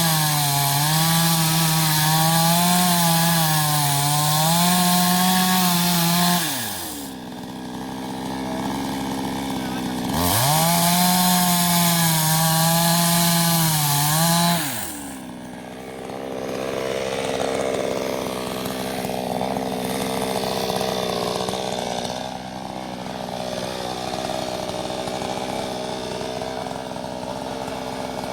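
Chainsaw at full throttle, its pitch wavering as it cuts. It drops to idle about six seconds in, revs up again around ten seconds, then falls back to a steady idle for the rest.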